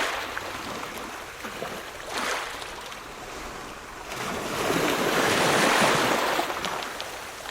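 Ocean waves breaking and washing in. A small wave comes about two seconds in, then a bigger, louder wave builds from about four seconds and draws back near the end.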